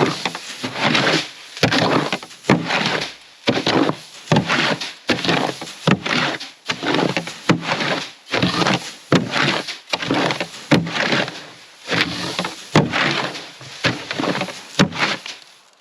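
A rake dragged back and forth through a pile of grain chicken feed, making repeated scraping, rustling strokes about once a second.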